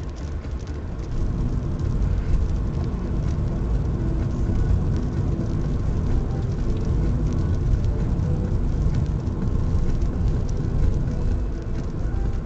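Steady low rumble of a car driving, tyre and engine noise heard from inside the car, getting louder about a second in as it picks up speed.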